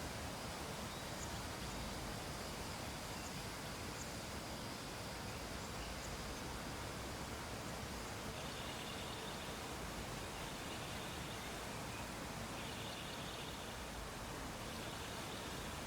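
Steady hiss of background noise, with faint high chirring in four short bursts of one to two seconds over the second half.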